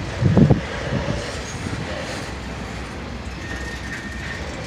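Coal train rolling slowly past: a steady rumble of freight cars on the rails, with a short louder knock about half a second in and a faint thin squeal near the middle.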